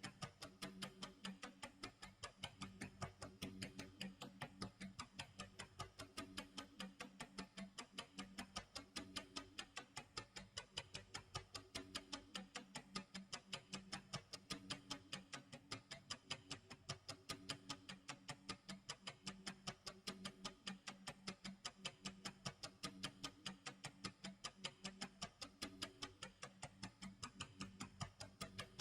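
Clock tick-tock sound effect: faint, steady, evenly spaced ticks running without a break, over a low, repeating tonal pattern.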